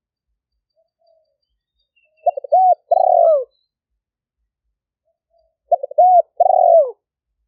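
Spotted dove cooing: two phrases about three seconds apart, each a few short quick coos followed by a longer coo that drops in pitch at the end.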